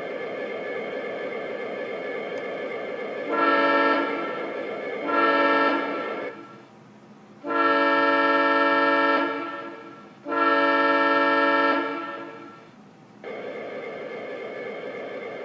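MTH O-scale SD90MAC model locomotive's sound system playing a recorded SD60M diesel horn: four blasts, two short then two long, each fading as it ends. The model's steady diesel engine sound runs underneath and drops out briefly between the later blasts.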